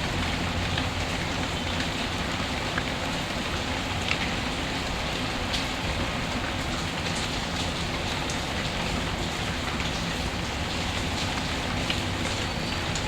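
Steady rain falling, with scattered sharp crackles and ticks from a wood fire mixed in.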